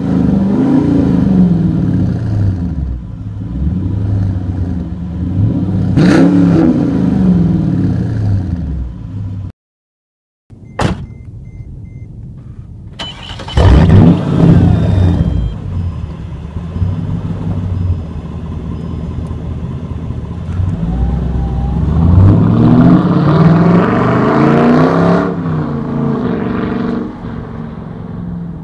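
Mercedes CLK55 AMG's 5.4-litre V8 with a straight-piped exhaust and no mufflers, revved repeatedly in blips that rise and fall. There is a brief silent gap about ten seconds in, then a loud rev a few seconds later. The engine settles to a steady run, revs again in a longer rise and fall about 22 to 25 seconds in, and runs lower near the end.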